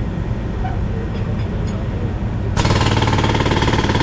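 Heavy equipment's diesel engine running steadily, then about two and a half seconds in a concrete breaker starts hammering rapidly and loudly and keeps going.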